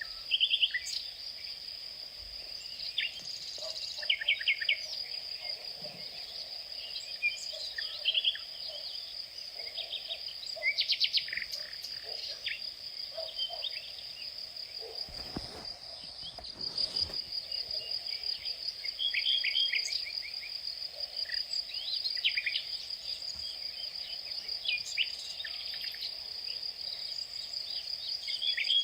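A steady high-pitched insect trill, with birds calling now and then in short quick runs of chirps.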